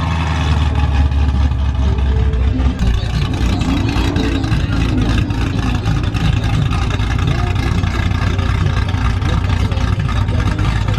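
Car engine running with a steady low rumble, with crowd noise behind it.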